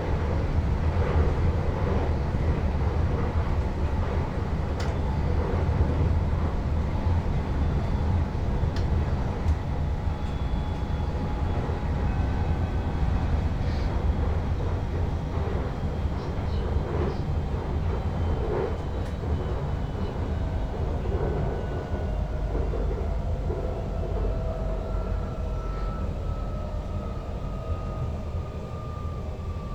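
Sprinter Lighttrain electric multiple unit running, heard from the driver's cab: a steady low rumble with occasional clicks. Thin electric whines fall slowly in pitch through the second half.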